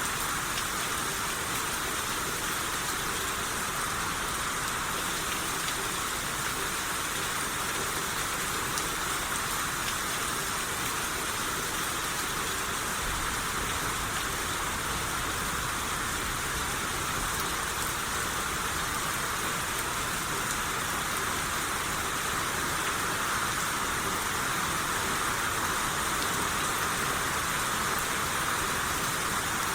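Steady rain shower falling and pattering on surfaces, an even hiss with scattered drops.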